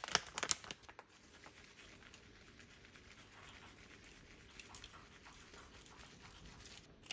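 Handling noises: a quick cluster of crinkling and tapping in the first second, then soft rustling with scattered light clicks, and one more click near the end.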